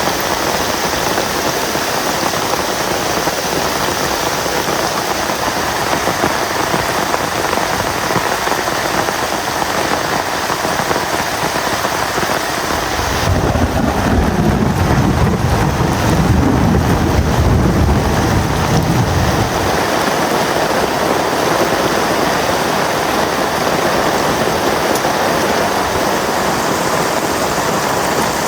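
Heavy rain falling steadily, with a low rumble of thunder rolling through for about six seconds around the middle.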